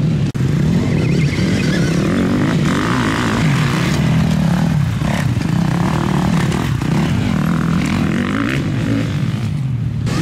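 Several motocross motorcycles racing together, their engines revving up and falling back again and again as the riders work the throttle.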